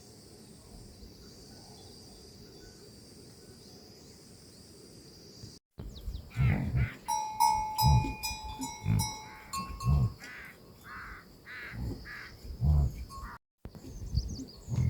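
Livestock calling, a run of short low calls about a second apart, with a ringing tone sounding over them for a few seconds. Before that, a steady high hiss.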